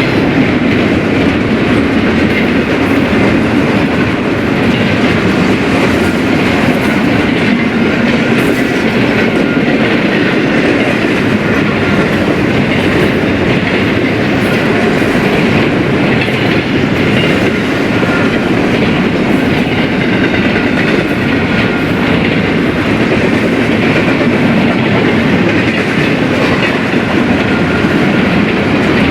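BNSF freight train's cars rolling past at speed, a steady loud rumble of steel wheels on rail that holds unbroken throughout.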